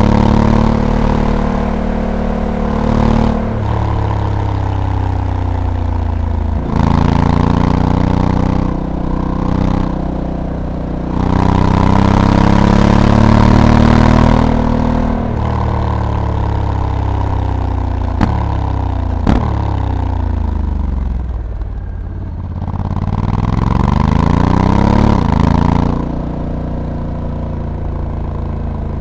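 Honda Africa Twin's 1084 cc parallel-twin engine under riding load. It pulls up in revs and drops abruptly at each quick gear change of the dual-clutch transmission, winds down as the bike slows, then picks up again near the end, with wind noise over it.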